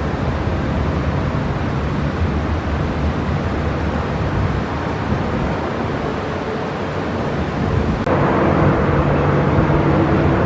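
Steady engine noise with a rumbling haze. About eight seconds in it abruptly becomes louder, with a steady low hum added.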